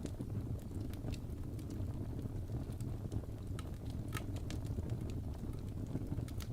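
Fire burning in a fireplace: a steady low rumble from the flames, with scattered sharp crackles and pops every second or so.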